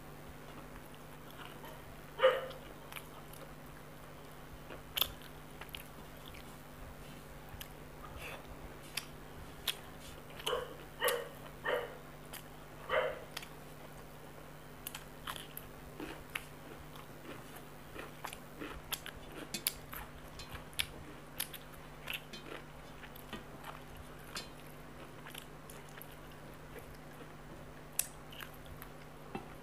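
Close-miked eating of spicy chicken curry by hand: chewing and mouth sounds with scattered small clicks. There is a louder bite a couple of seconds in and a quick run of four more about ten to thirteen seconds in.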